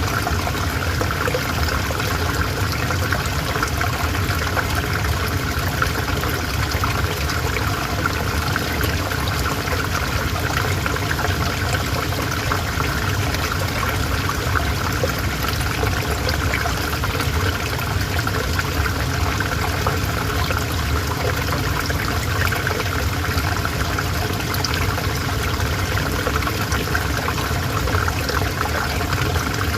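River water flowing steadily: an even, unbroken wash of running water.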